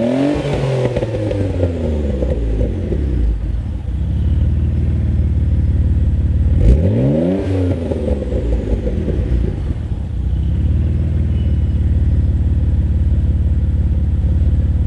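Mitsubishi 3000GT VR4's twin-turbo V6 through a Tanabe Medalion Touring cat-back exhaust, with a low, deep tone. It falls back from a rev at the start, idles, then is revved once about seven seconds in and drops back to a steady idle.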